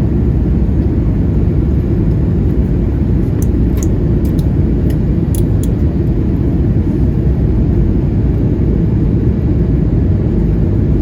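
Steady low rumble inside the cabin of an Airbus A320neo on final approach: airflow and engine noise, with a few faint light ticks a few seconds in.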